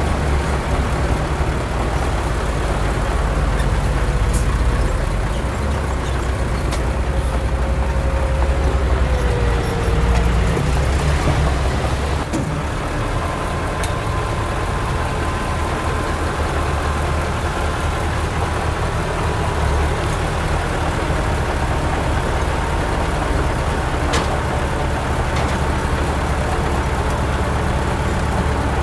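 Heavy diesel earthmoving machinery running steadily under load: a deep engine rumble with a faint whine above it and a few sharp metallic clanks.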